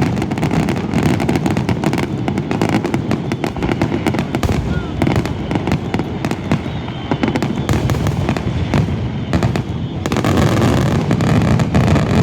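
Fireworks finale: a dense, continuous barrage of shells bursting and crackling, many reports overlapping with a heavy low rumble.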